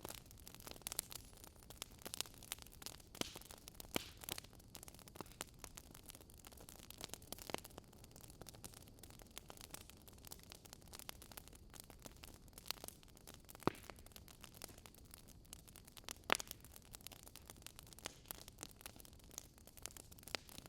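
Wood fire in a fireplace crackling, with irregular small pops over a soft steady hiss, and two louder pops about two thirds of the way through.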